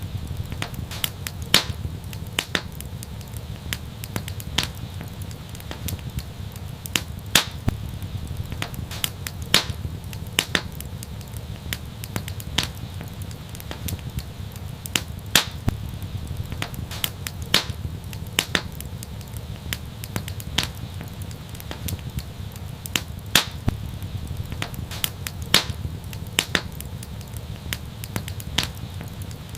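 Wood fire crackling: irregular sharp pops and snaps, several a second and a few much louder, over a steady low rumble of the flames.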